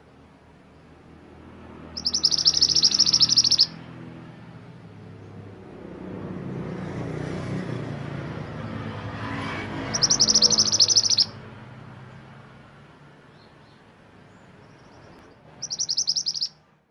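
A mantenan gunung songbird singing three short, rapid, high-pitched trilling phrases spaced several seconds apart, over a low background rumble.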